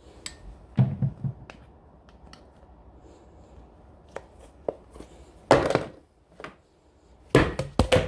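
Scattered knocks, taps and thumps of a plastic chocolate syrup bottle being handled and squeezed, the loudest clusters about a second in, around five and a half seconds in and near the end.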